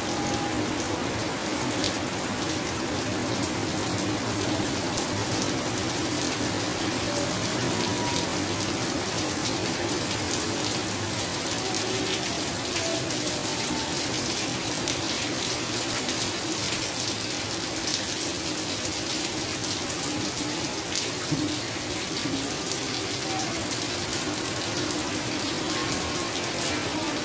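Heavy rain falling steadily onto a tiled rooftop terrace, splashing on the wet tiles and the water pooled along the railing.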